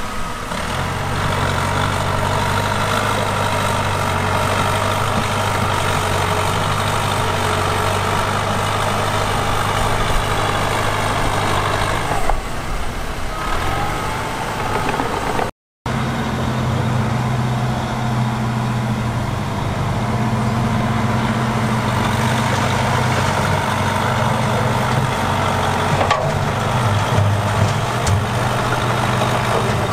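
Heavy diesel earthmoving machinery running steadily, its engine holding a low, even note. The sound cuts out for a moment about halfway.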